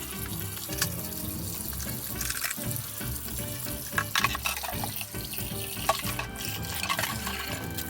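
Water running from a kitchen tap into a sink, with a few sharp knocks.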